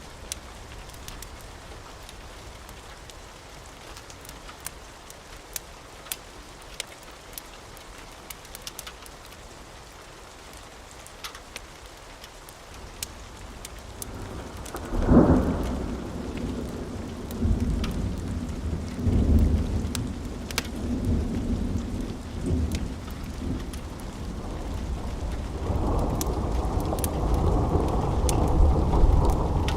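Steady rain with scattered sharp clicks, then about halfway through a sudden thunderclap followed by long rolling thunder that swells again near the end.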